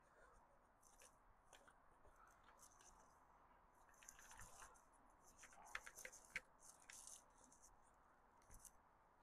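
Near silence with faint scattered clicks and short scrapes, busiest in the middle, like small tools and parts being handled.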